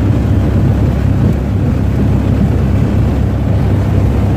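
Boat engine running steadily while the boat is underway, a constant low rumble.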